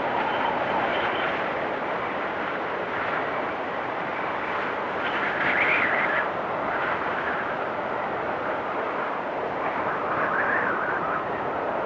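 Blizzard wind blowing steadily in gusts, with a stronger gust swelling up about five seconds in and another near ten seconds.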